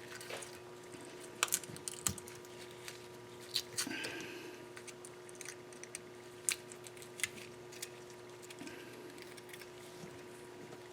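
Scattered light clicks and taps of a hand tool on an engine's metal deck, with a brief scrape about four seconds in, as the gasket surface is cleaned.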